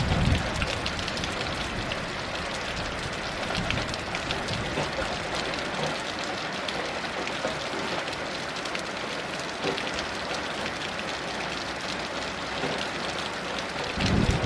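Heavy rain falling steadily, an even hiss full of small drop taps. A low rumble dies away in the first half second, and another low rumble swells up near the end.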